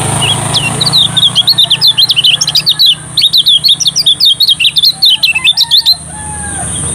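Kecial kuning, a white-eye, singing a fast, loud run of short, high chirps with a brief break midway. The song cuts off abruptly near the end, over a steady hiss and low hum.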